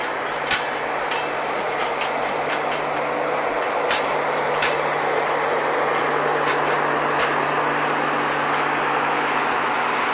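Passenger train coaches rolling past close by: a steady rumble of steel wheels on the rails, with scattered sharp clicks.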